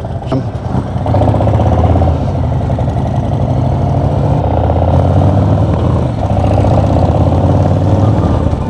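Harley-Davidson V-twin motorcycle engine running under way at road speed, with a steady low hum; it gets louder about a second in and holds there.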